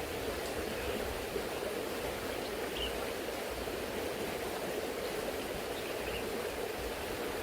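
Shallow, fast river current rushing steadily over its bed.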